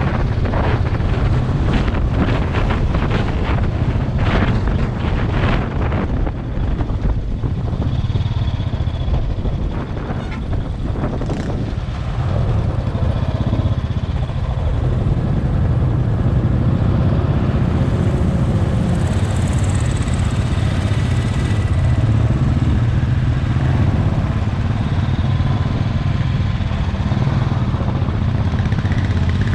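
Motorcycle engine running steadily while riding, with wind buffeting the microphone and a crackly rustle in the first few seconds.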